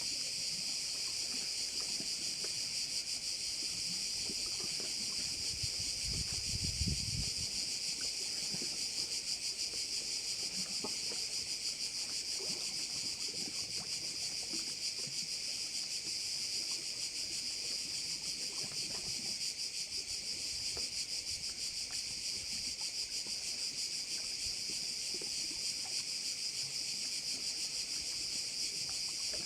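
Dense chorus of cicadas, a steady unbroken high buzz. A brief low rumble comes about six to seven seconds in.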